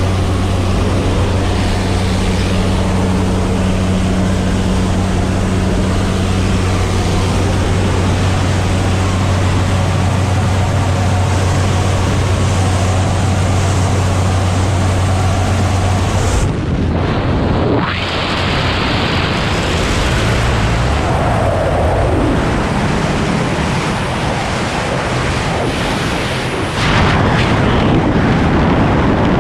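Steady drone of the L-410's twin turboprop engines. About sixteen seconds in the engine hum drops away and a loud, shifting rush of wind noise on the microphone takes over, as in a skydiving exit and freefall.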